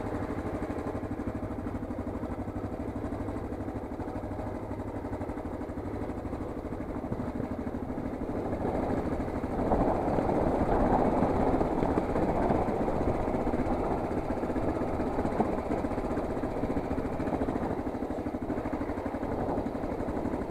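Motorcycle engine running steadily on a downhill dirt trail. It gets louder and rougher for a few seconds about halfway through.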